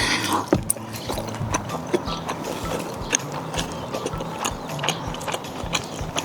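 Irregular sharp clicks and taps of tableware during a meal, over a steady low hum.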